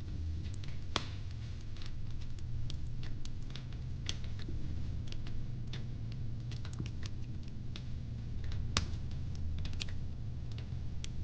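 Wood fire crackling: irregular sharp pops and snaps, a louder pop about a second in and another near the end, over a steady low rumble.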